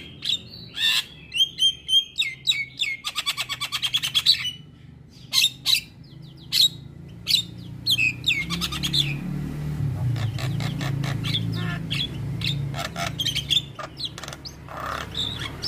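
Javan myna (jalak kebo) calling: a string of sharp chirps and harsh squawks, with a fast rattling run of repeated notes about three seconds in. A low hum sits underneath through the middle.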